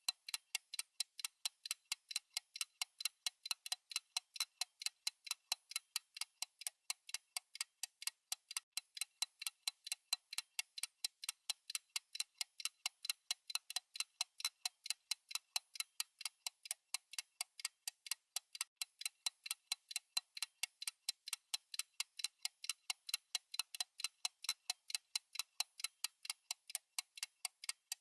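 Countdown timer's fast clock-ticking sound effect: crisp, even ticks at about four a second, alternating louder and softer like a tick-tock.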